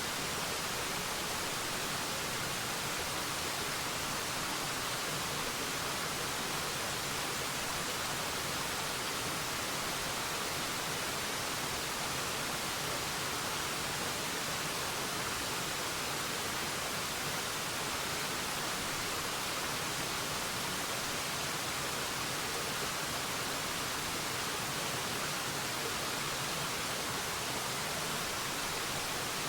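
Waterfall rushing steadily: an even, unbroken hiss of falling water, mostly high in pitch with little low rumble.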